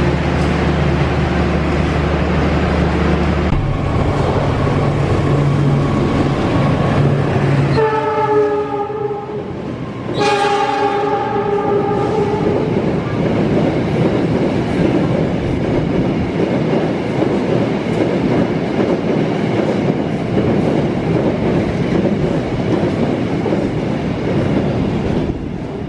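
Freight train of tank wagons running past at speed: a low rumble, then the locomotive's horn sounds twice, a short blast about eight seconds in and a longer, louder one about two seconds later. After that comes the steady roar and clatter of wheels over the rail joints as the tank wagons go by.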